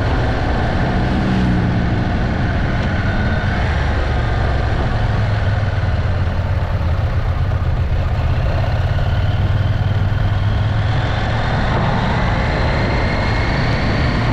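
Motorcycle engine running steadily with a low rumble, with a faint rising whine near the end.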